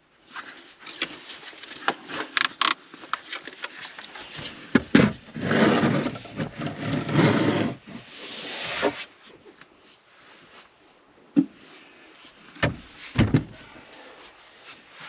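Scattered knocks, clicks and thumps with stretches of rustling, as of things being moved about and handled; the rustling is loudest between about five and nine seconds in.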